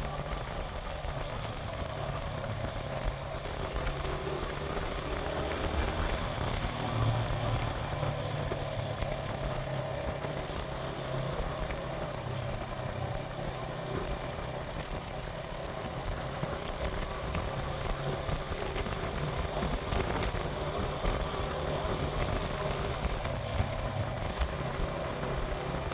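Suzuki GN125 motorcycle's single-cylinder four-stroke engine running steadily, over a constant hiss.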